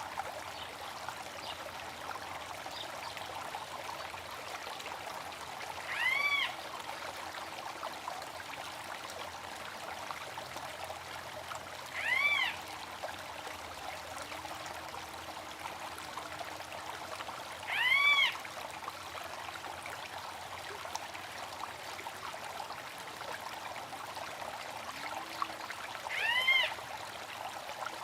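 A stream running steadily, with a bird giving a single short call that rises and falls in pitch, four times at intervals of about six seconds.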